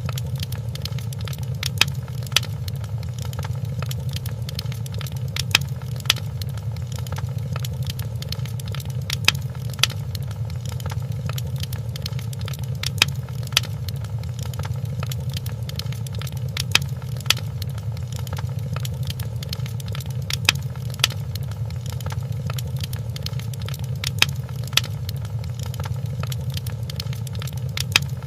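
Log fire crackling in a fireplace: a steady low rumble of flames with sharp pops and snaps at irregular intervals.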